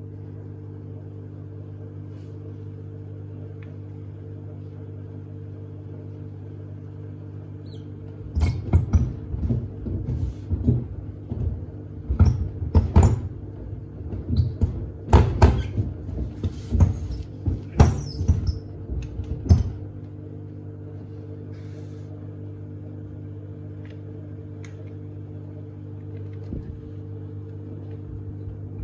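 Samsung WD70T4047CE front-loading washing machine on a wash cycle with sneakers inside: a steady motor hum throughout, and for about twelve seconds in the middle the drum turns and the shoes thud and knock hard against the drum and the door glass. The knocking stops while the drum pauses and starts again near the end.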